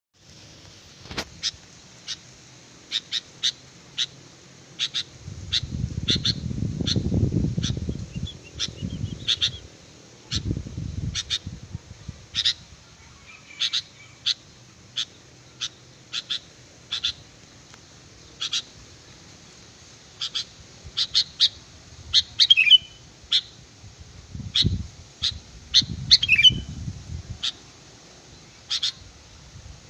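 Sooty-headed bulbul (kutilang) calling over and over in short, sharp chirps, one or two a second, with a couple of longer warbled phrases near the end. A low rumbling noise comes and goes underneath at times.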